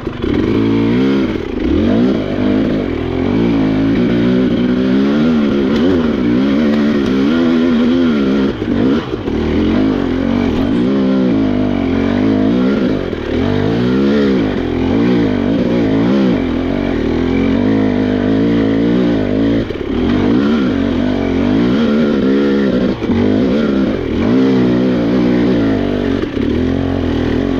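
Husqvarna two-stroke dirt bike engine revving hard under load on a steep loamy climb, its pitch rising and falling again and again as the throttle is worked.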